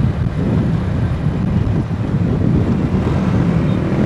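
Honda Astrea Grand's small single-cylinder four-stroke engine running steadily under way, with road noise.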